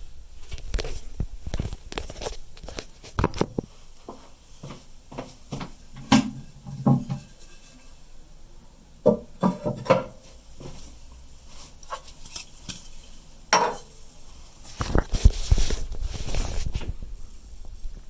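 Irregular clinks, knocks and scrapes of hard objects being handled, with a denser stretch of scraping and clatter near the end.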